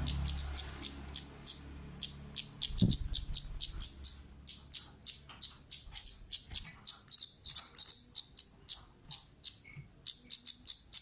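Kemade bird giving a rapid series of sharp, high 'cit' chip calls, about three to four a second, with a brief pause near the end. A low hum sits under the first couple of seconds.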